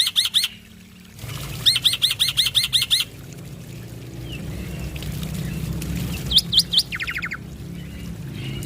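Male black-winged myna (jalak putih) singing: runs of rapid, sharply repeated whistled notes, about seven a second, in bursts with pauses between them. A low steady hum runs underneath from about a second in.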